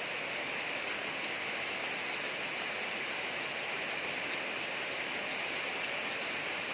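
Steady rain falling on a street, an even hiss with a few faint drop ticks.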